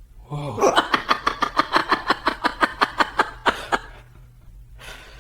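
Rapid cackling laughter, a fast string of about seven "ha"s a second lasting about three seconds, then dying away, with a short breath near the end.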